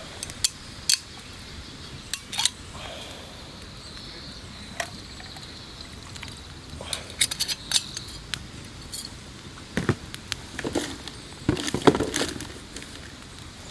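Scattered sharp clinks, clicks and knocks of small objects being handled, busiest in the second half, over a faint steady high-pitched trill.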